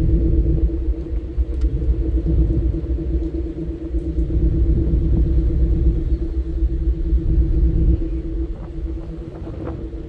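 Steady machinery drone of a car ferry, a constant hum over a heavy low rumble, with wind buffeting the microphone.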